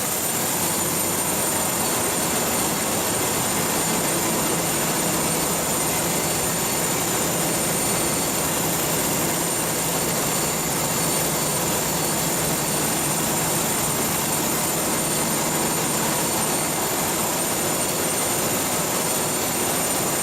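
Coastal cargo ship's engine machinery running steadily at sea: a loud, even mechanical din with a few thin, steady high-pitched whines above it.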